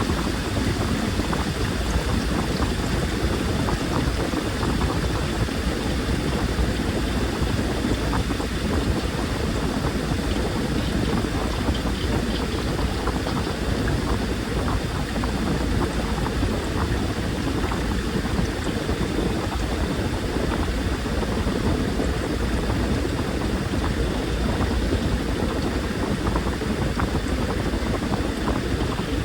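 Washing machine running steadily, with water churning in the drum over a low motor hum.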